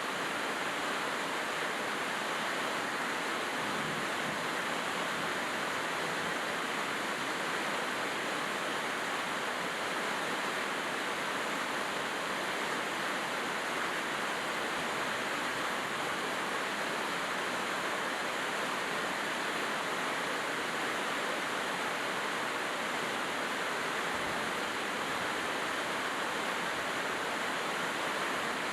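Steady rainfall, an even unbroken hiss with no change in strength.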